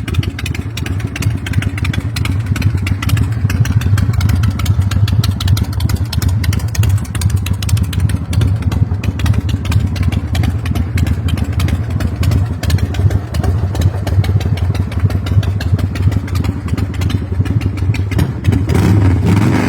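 Custom V-twin chopper engine, a 2003 American IronHorse, running steadily with a deep rumble; its pitch shifts slightly near the end.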